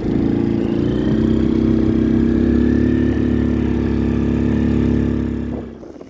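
CFmoto CForce 110 youth ATV's 110cc engine running steadily under throttle, then falling away sharply near the end.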